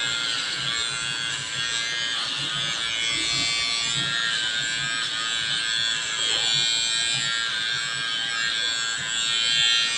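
Electric hair trimmer running steadily, its buzz wavering slightly as it cuts through hair.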